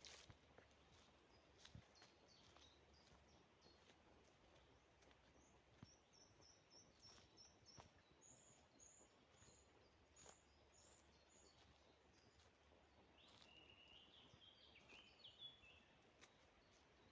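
Faint birdsong: a run of short, high repeated notes through the middle, then a lower, quicker phrase near the end, with a few light clicks scattered through.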